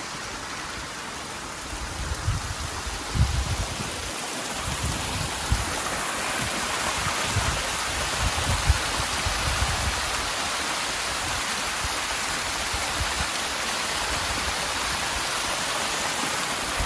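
Small waterfall, water rushing and splashing steadily. Irregular low bumps on the microphone between about two and ten seconds in.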